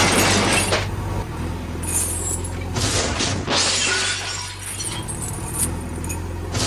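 Glass shattering and crashing, several times over: a loud smash at the start, then more breaking bursts in the middle, over a steady low hum.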